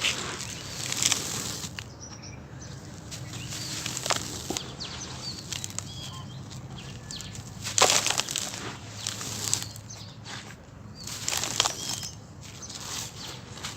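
Dry sand-cement chunks being crushed and smashed, breaking apart in irregular gritty crunches and crumbling, the loudest crunch about 8 seconds in.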